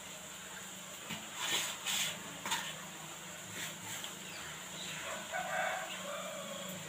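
Bird calls: a few short, sharp squawks between one and three and a half seconds in, then a longer drawn-out call near the end, over a steady low hum.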